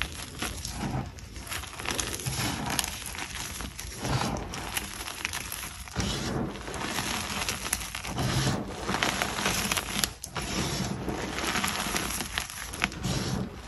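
Pieces of chalk being bitten and chewed: an irregular, crisp crunching with many small cracks and grinding, rising and falling in uneven bouts.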